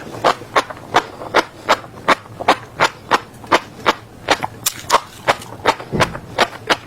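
Close-miked crunching of seeds being bitten and chewed: crisp, sharp crunches about three times a second in an even rhythm.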